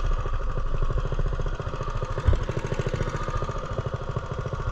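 Small single-cylinder Coleman mini bike engine running at a low, steady speed, its exhaust pulses rapid and even. There is a single brief knock about two seconds in.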